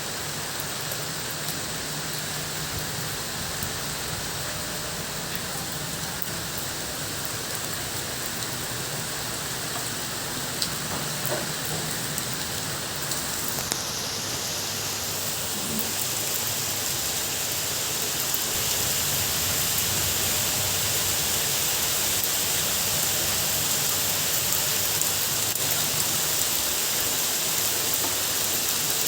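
Steady rain falling and pattering on surfaces, getting a little louder in the second half.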